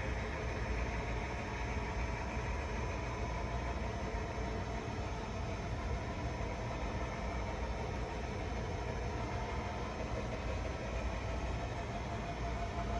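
HO scale model train running on the layout: a steady, unbroken hum and rumble.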